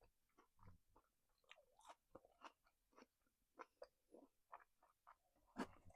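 A person chewing a mouthful of grilled kebab meat and vegetables: faint, irregular wet clicks and smacks of the mouth, with a louder one just before the end.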